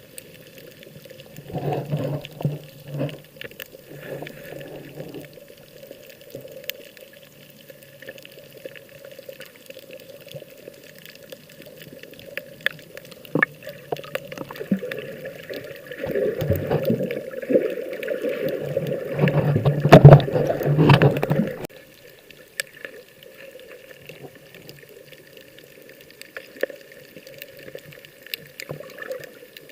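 Sea water sloshing and splashing, with a short surge about two seconds in and a longer, louder surge from about sixteen to twenty-two seconds.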